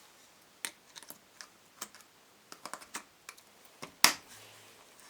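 Irregular light clicks and taps of small metal starter-motor parts being handled and pushed together by hand, with a sharper, louder click about four seconds in as the part clips into place.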